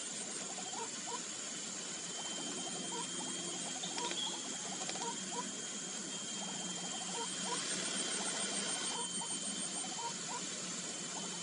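Repeated short, rising call notes of white-breasted waterhens, over a steady background with a high, evenly pulsing insect drone.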